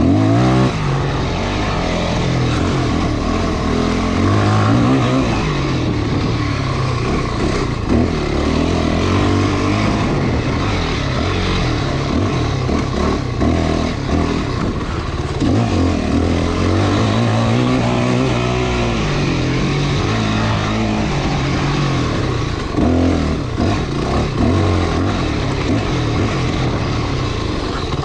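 Dirt bike engine under way on a trail, its pitch rising and falling again and again as the throttle is opened and eased off, over a steady rush of noise.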